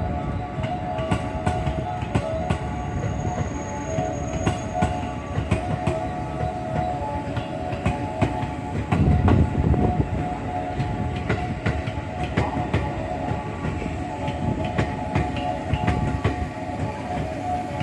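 Electric commuter train running through the station, its wheels clicking repeatedly over rail joints and points, over a steady rumble and whine, with a louder low thump about nine seconds in.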